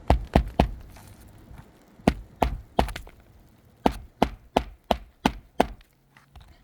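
Hammer driving roofing nails through asphalt shingles into the roof deck, with the hammer working under a lifted 3-tab shingle: about a dozen sharp blows in three runs, three, three, then six quicker strikes.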